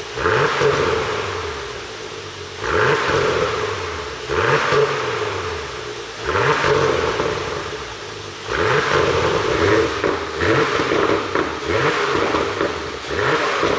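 Porsche Panamera 4's twin-turbo V6 blipped repeatedly, about every two seconds: the revs shoot up, then fall back with crackles and pops from the exhaust on the overrun, the effect of an ECU pop-and-crackle tune.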